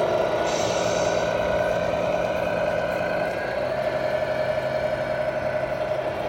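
A steady engine running, with a brief high hiss about half a second in.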